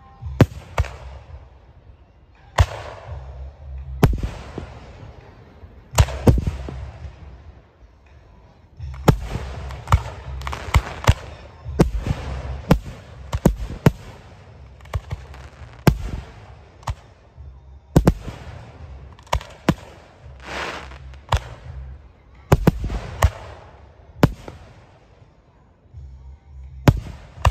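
Aerial firework shells bursting overhead, a sharp bang every second or two, thickest in the middle with several in quick succession. Many bangs trail off into a hissing crackle, with a low rumble beneath.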